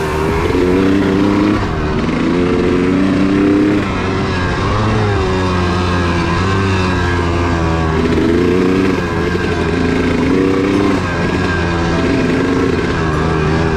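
2002 Honda CR250's single-cylinder two-stroke engine running hard on a motocross track, its pitch repeatedly rising and falling every second or two as the throttle is opened and rolled off.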